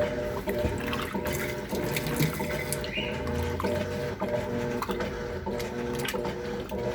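Electrolux LTC10 top-loading washing machine running with a full load: a steady motor hum that keeps breaking off and resuming, over the sound of water moving in the tub.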